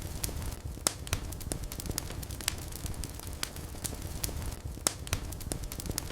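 Wood fire burning in a fireplace, a low rumble of flames with frequent irregular crackles and pops; the sharpest pops come about a second in and near the end.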